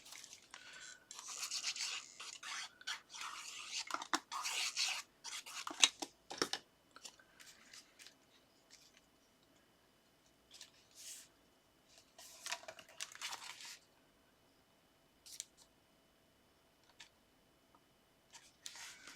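Paper and card being handled and rubbed: rustling and scraping with a few sharp taps, busy for the first six or seven seconds, then only short rustles now and then.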